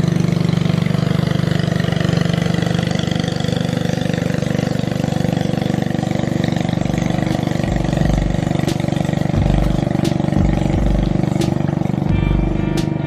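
A motor engine running steadily at an even speed. From about halfway through, irregular low rumbles join it, along with a few sharp clicks.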